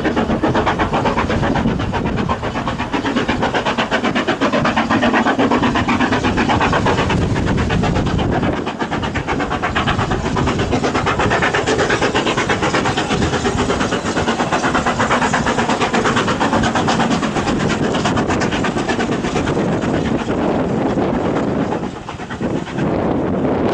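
Steam locomotive working past with train, a loud continuous run of fast, even exhaust beats and rail noise.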